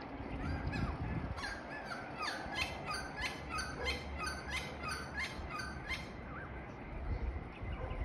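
Bird calling in a quick run of repeated notes, about two or three a second, that stops about six seconds in, over faint low background noise.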